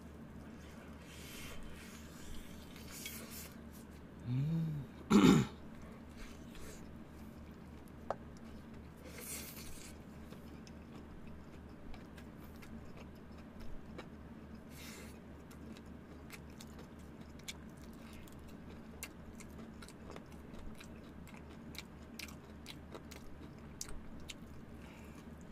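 Close-up chewing and crunching of crispy fried chicken, with scattered small crackles from the batter. About five seconds in comes one short vocal sound from the eater, the loudest moment.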